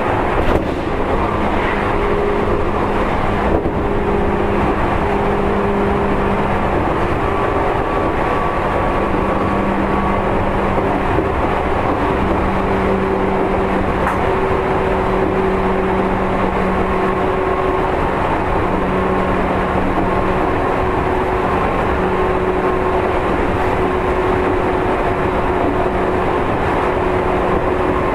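Seibu 2000 series electric commuter train running at steady speed: continuous rumble of wheels on track with steady electrical hums that fade in and out, and a couple of faint clicks in the first few seconds.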